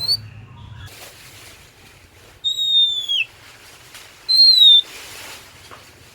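Oriental magpie-robin (kacer) singing loud, clear whistled notes: a rising note ending just at the start, a long, slightly falling whistle that drops away at its end about two and a half seconds in, then a shorter arched whistle a little past four seconds.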